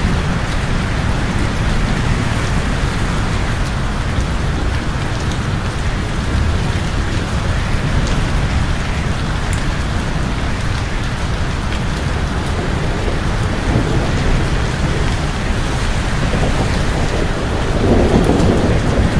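Steady, dense rain falling, with a low rumble of thunder building near the end.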